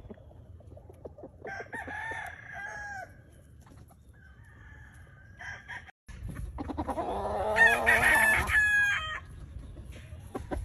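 Roosters crowing and clucking: a few shorter calls early, then one loud, drawn-out crow about six seconds in lasting roughly two and a half seconds.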